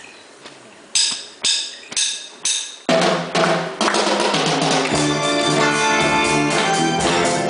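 Drumsticks clicked together four times, about two a second, counting in the band; then a live amateur rock band of drum kit, bass, guitars and keyboard comes in together about three seconds in and plays on steadily.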